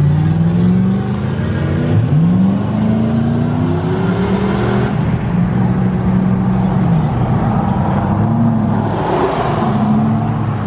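Vehicle engine revving: the pitch climbs twice over the first five seconds, holds high, drops back about seven seconds in, then rises and falls again briefly near the end.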